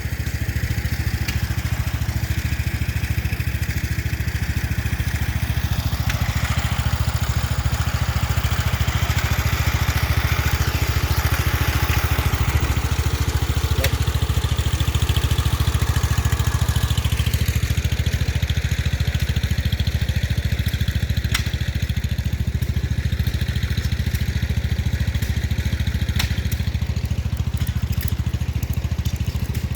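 Small gasoline engine running steadily at a low idle, with a continuous low pulsing exhaust note.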